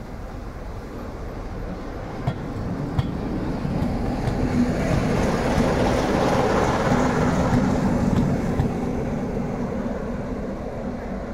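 Train passing: a rumbling run of noise that builds to a peak around the middle and then fades away.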